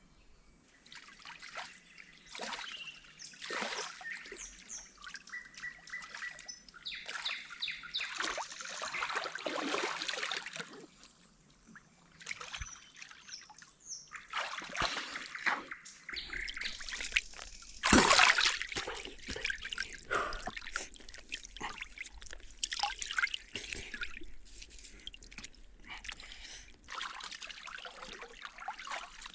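Water trickling and splashing in irregular surges, the loudest about 18 seconds in, with birds chirping.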